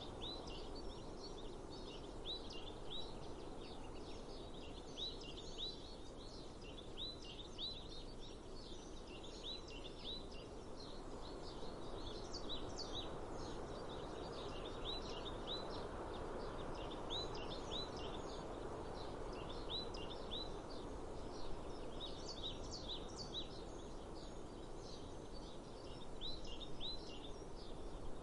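Small birds chirping, short repeated chirps in loose clusters throughout, over a steady hiss of outdoor background noise such as breeze.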